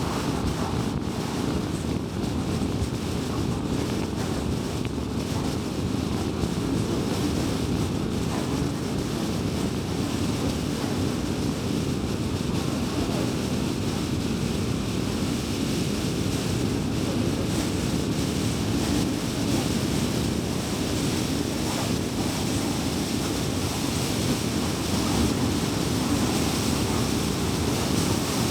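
A car driving at a steady speed: constant road and tyre noise with a low engine hum, without any sudden events.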